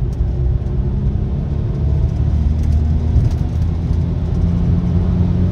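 Audi A6 C5's 2.7 V6 biturbo engine accelerating hard through one gear, heard from inside the cabin. Its note rises slowly as the revs climb from about 4,000 to 5,000 rpm, over a bed of road noise.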